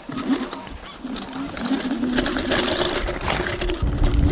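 Electric hyperscooter's motor whining as the rider pulls away on the trail, its pitch wavering with the throttle, with scattered clatter from the tyres and chassis. A low rumble joins near the end as speed builds.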